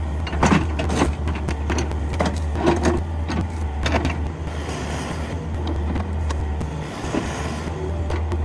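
Yanmar VIO50 mini excavator's diesel engine running steadily under work, with irregular sharp cracks and knocks throughout and a hiss in the middle.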